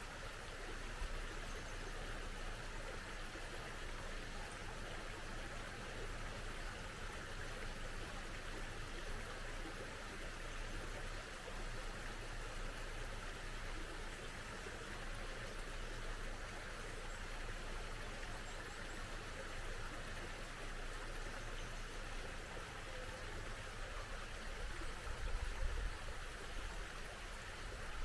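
A small stream running steadily, with a few faint high bird chirps now and then. A brief low rumble comes about 25 seconds in.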